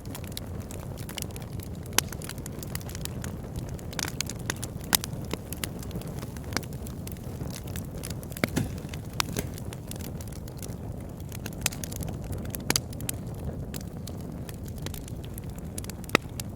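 Wood fire burning in a fireplace: a steady low rumble of flames with irregular sharp crackles and pops, a handful of them louder than the rest.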